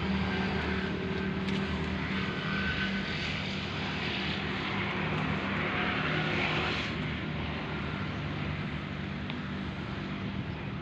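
Ford 3610 tractor's three-cylinder diesel engine running steadily, with a hiss that swells between about four and seven seconds in.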